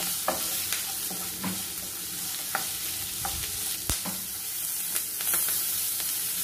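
Sliced onions, curry leaves and dried red chillies sizzling in hot oil in a kadai while a wooden spatula stirs them, with short knocks and scrapes of the spatula against the pan every second or so, the sharpest about four seconds in.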